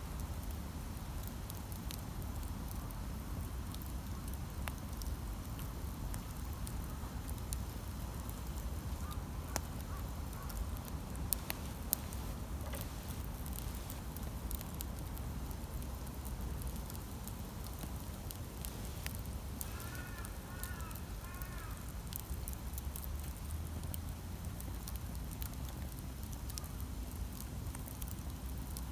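Campfire burning, with a steady low rumble and scattered sharp crackles and pops of the wood. About twenty seconds in a bird calls briefly with a quick run of short chirps.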